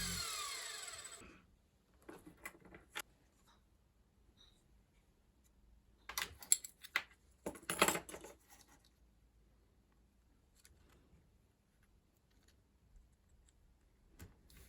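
Washing machine universal motor spinning down after its power is cut, its whine falling steadily in pitch and dying out about a second in. Then a few clicks and clattering knocks follow, in two clusters about two and about six to eight seconds in.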